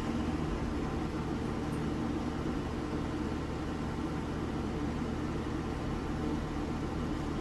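Steady low hum over a constant hiss.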